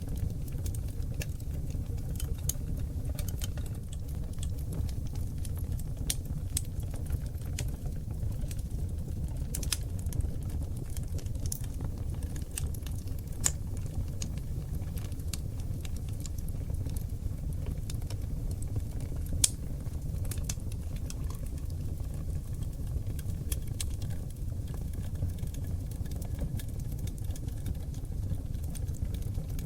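Oak log fire burning in a fireplace: a steady low rumble under frequent small crackles, with two louder pops, one near the middle and one about two-thirds of the way through.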